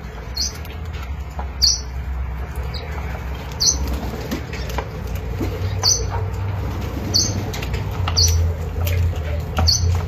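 Birds in a tree: short high chirps about once a second, over a steady low rumble that grows louder about halfway through.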